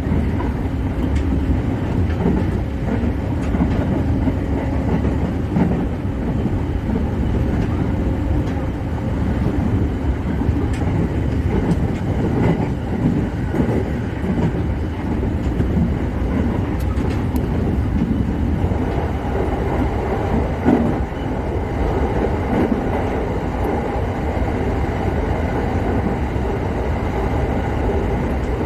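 JR Musashino Line electric train running at speed, a steady rumble of wheels on rails heard inside the front car. About two-thirds of the way through, a faint higher tone joins the rumble.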